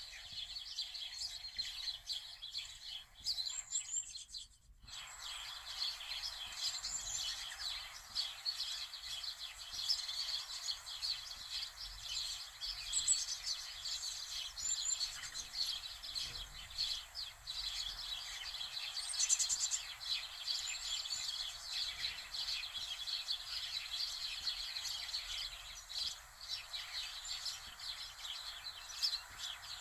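Many small birds chirping in a dense, continuous chorus over a steady hiss, with a brief dropout about four and a half seconds in.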